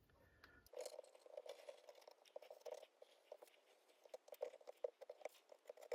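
Faint handling sounds, scattered light ticks and crackles, as glue is applied and the thin wooden side skin of a model boat hull is worked into place.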